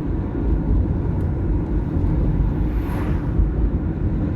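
Car engine and tyre noise heard from inside a moving car: a steady low rumble, with a brief swell about three seconds in.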